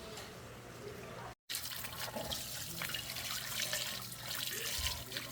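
Water running and splashing. It cuts in after a sudden break about a second and a half in and then goes on steadily.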